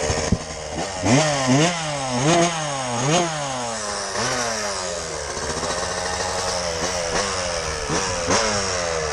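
Dirt bike engine revved in short blips, about five quick rises and falls in pitch in the first few seconds, then running at a steadier speed with a few smaller revs near the end.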